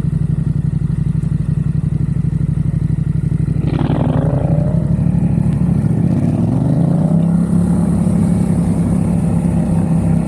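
Yamaha XSR700's parallel-twin engine through a MiVV exhaust, running steadily on the move, then rising in pitch about six seconds in as the bike accelerates. A brief rush of noise about four seconds in.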